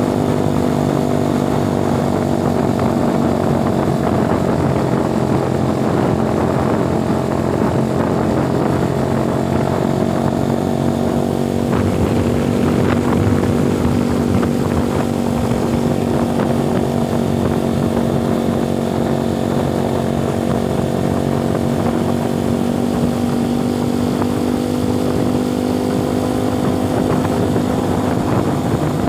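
Motorcycle engine running steadily while riding, its pitch shifting slightly about twelve seconds in.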